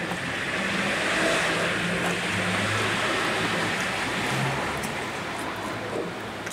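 Chewing on a piece of sauced fried chicken over a steady rushing background noise, with a few short low-pitched hums in the first few seconds.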